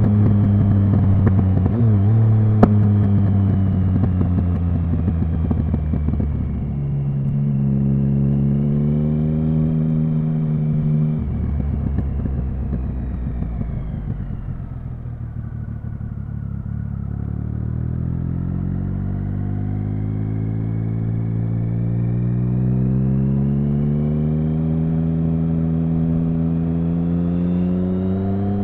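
Triumph Speed Triple 1050's inline three-cylinder engine and exhaust under way. The pitch changes abruptly about a third of the way in and again shortly before the middle, falls as the bike slows, then climbs steadily under acceleration towards the end. There is a sharp click early on.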